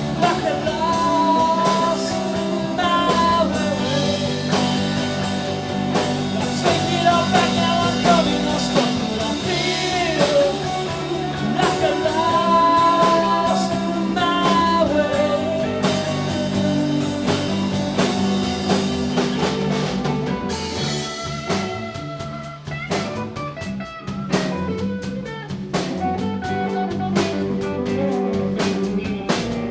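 Live rock band playing: drum kit, bass and guitars under a bending melodic lead line. About two-thirds of the way through the lead line drops away and the drums come forward.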